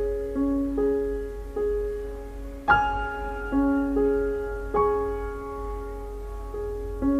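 Soft, slow piano music: single sustained notes played one after another, each ringing and fading.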